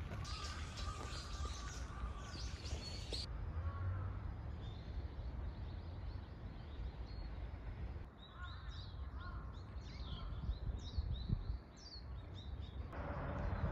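Small birds chirping and calling over a steady low outdoor rumble, with a dense run of quick chirps in the second half.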